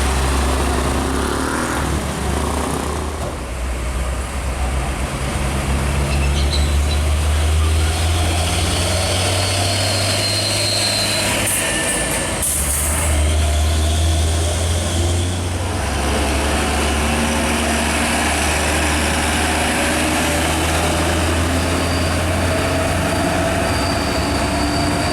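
Heavy diesel trucks driving past, a deep, steady engine rumble that changes as one truck gives way to the next, with a brief hiss of air about halfway through.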